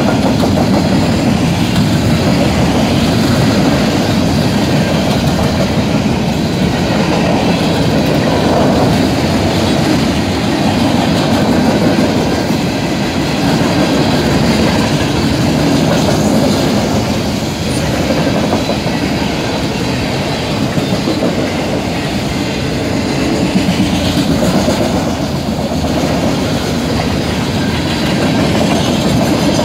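Freight train cars rolling steadily past over a level crossing, the continuous sound of steel wheels running on the rails.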